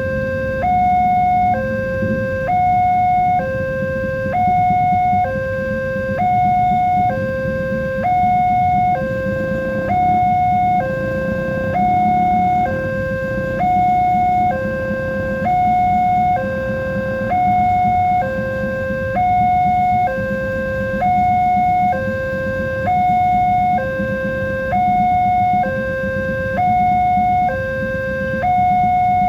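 Railway level-crossing warning alarm sounding a steady two-tone pattern, high and low tones alternating about once a second, over a low rumble.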